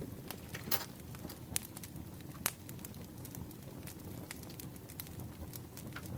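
Campfire crackling: irregular sharp pops and snaps over a steady low rumble, with one louder pop about two and a half seconds in.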